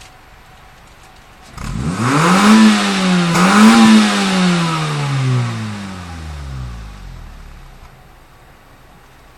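Honda Civic EM2's four-cylinder engine through its aftermarket exhaust with the silencer insert fitted, revving up hard and loud about one and a half seconds in, dipping briefly and climbing again, then falling slowly in pitch and loudness until it fades out.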